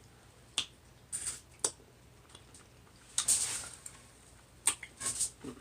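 Close-up eating sounds from seafood being eaten: scattered short wet clicks and smacks of the mouth, with a longer noisy slurp-like burst about three seconds in and a few quick clicks near the end.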